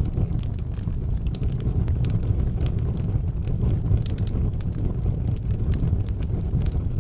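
Wood fire burning in an outdoor fireplace, with frequent sharp crackles and pops over a steady low rumble of the flames.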